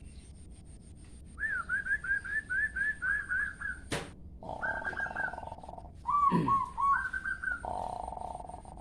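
Songbird singing: quick runs of short, repeated, sharply hooked chirps, broken by buzzy rasping phrases. There is a single sharp click about four seconds in.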